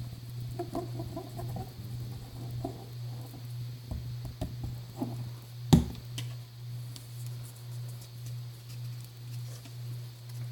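Small taps and clicks of paper and craft supplies being handled on a tabletop over a steady low hum, with one sharp knock about halfway through.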